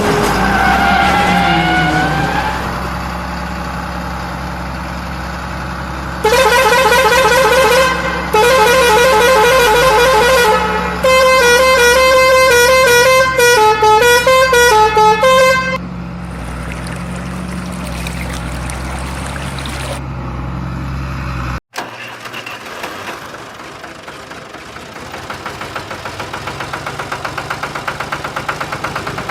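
A vehicle engine runs steadily while a loud horn sounds in two long blasts, then plays a quick warbling tune of changing notes. The sound cuts off suddenly, and a different engine chugs in with a rhythm that speeds up near the end.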